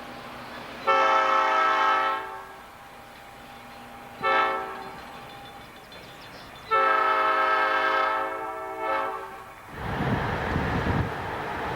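Diesel locomotive air horn sounding a multi-note chord in the grade-crossing pattern: a long blast, a short one, then a final long one. The final long blast follows another blast that ends just before. Near the end a rough rumble of wind on the microphone takes over.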